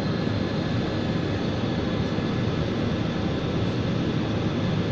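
Steady jet airliner cabin noise in flight: the even rush of engines and airflow heard from inside the passenger cabin, heaviest in the low end, with a few faint steady tones above it.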